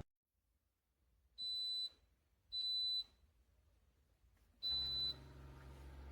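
Single-serve coffee maker giving three short, high electronic beeps about a second apart. With the third beep a low, steady machine hum starts and keeps running.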